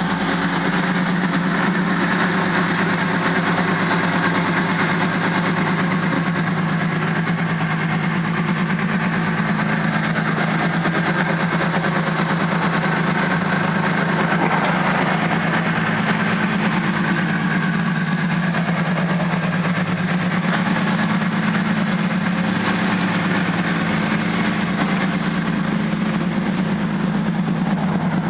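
Supercharged Ford Ranger 4.0 V6 idling steadily, heard through its aftermarket exhaust with Flowmaster 44 mufflers and an X-pipe.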